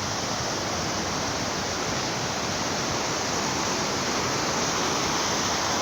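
Steady rushing noise, growing slightly louder toward the end.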